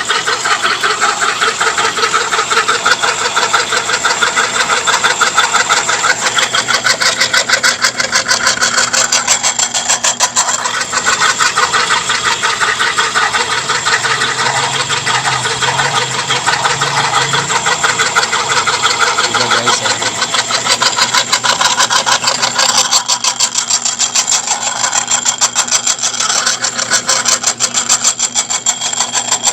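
Washing-machine motor driving a belt-driven grinder that is milling peanuts into peanut butter. It gives a loud, steady mechanical drone with a fast, even rattle.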